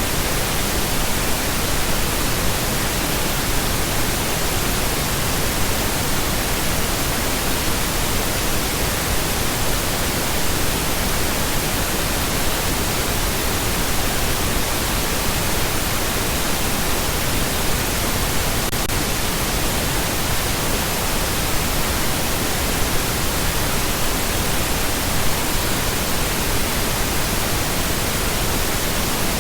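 Steady pink noise: an even, unchanging hiss spread across the whole range of pitch, without variation.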